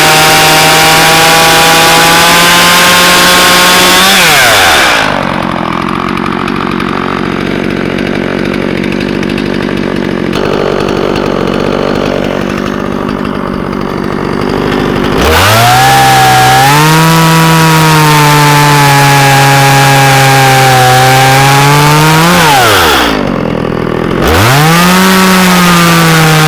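Harbor Freight electric chainsaw sharpener's motor and grinding wheel whining. It winds down about four seconds in, and a quieter hum follows. About fifteen seconds in it spins back up, then winds down and restarts once more near the end.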